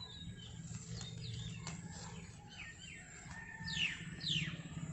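Small birds chirping and calling, with quick falling whistled notes; the two clearest come a little after the middle, about half a second apart.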